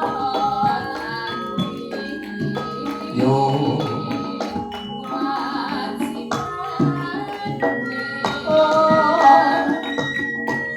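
Live Javanese music: a female sinden singing over a band with drums and other percussion.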